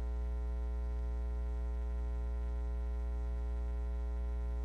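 Steady electrical mains hum, an unchanging low drone with a thin buzz of higher overtones above it.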